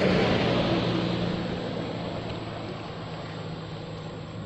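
A motor engine humming steadily, loudest at the start and fading over the first couple of seconds as it passes by.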